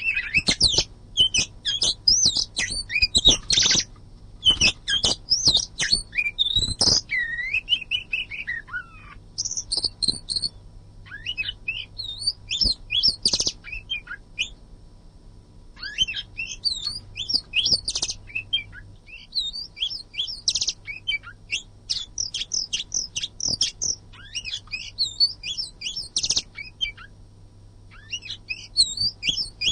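Oriental magpie-robin (kacer) singing a dense, varied song of rapid chirps, trills and whistles, in bursts separated by brief pauses, over a faint low hum.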